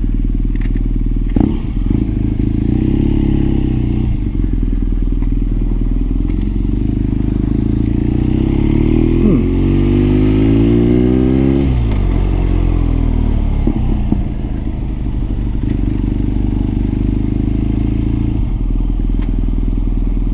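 BMW R nineT's boxer-twin engine and exhaust under way. The engine runs steadily, then its revs climb from about eight seconds in and drop sharply near twelve seconds, as at a gear change, with further shifts in pitch after.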